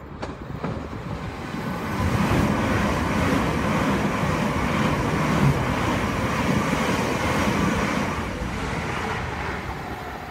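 Electric multiple-unit passenger train passing close by at speed, a rushing rumble of wheels on rail. It builds over the first two seconds, holds steady, then fades after about eight seconds as the train draws away.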